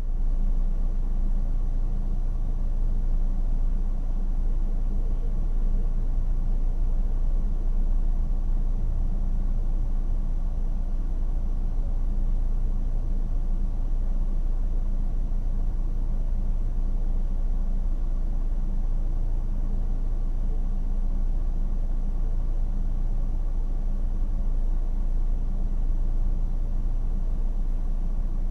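Car driving, a steady low rumble of engine and road noise heard from inside the car.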